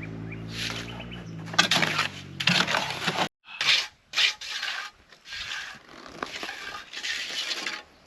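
Bursts of gritty scraping and crunching. A steady engine hum runs beneath them for about the first three seconds, then stops suddenly.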